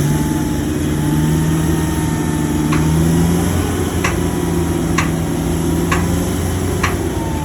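Heavy earthmoving machine's diesel engine running steadily, with a thin whine over it. From about three seconds in come sharp metallic clinks, about one a second.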